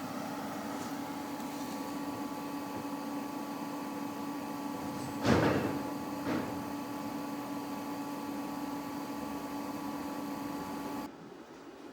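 Jungheinrich ETV110 electric reach truck running with a steady electric hum and whine, a loud clunk about five seconds in and a lighter one a second later. The hum drops away abruptly near the end.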